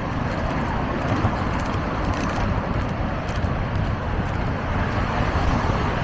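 Steady road traffic noise, an even wash of passing cars.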